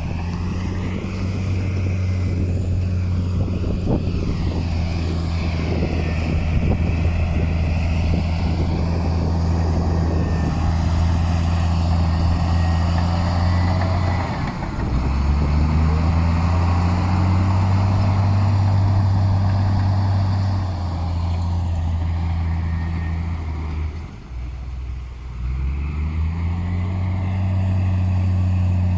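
Heavy diesel engine of earthmoving equipment running steadily under load. Its note sags twice, about halfway through and again near the end, then rises back up each time, with some clattering in the first few seconds.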